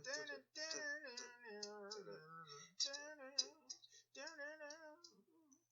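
A lone voice singing quietly with no instruments, in phrases the recogniser could not make out as words, trailing off shortly before the end.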